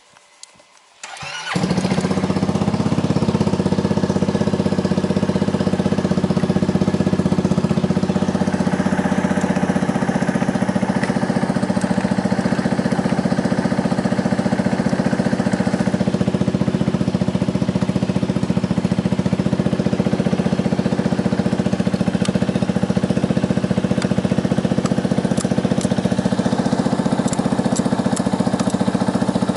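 Yamaha Grand Majesty 250 scooter engine, a single-cylinder four-stroke, starting a little over a second in, catching at once and then idling steadily through an aftermarket exhaust muffler.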